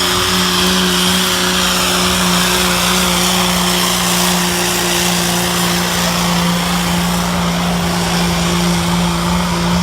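2005 Dodge Ram 3500 pickup's engine running flat out under heavy load, holding one steady high pitch throughout as the truck drags the pulling sled.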